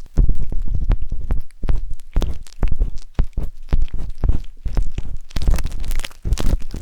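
Wooden skewers scraping and rubbing inside the silicone ears of a 3Dio binaural microphone: a quick, uneven run of close scratches with deep rumbling thuds.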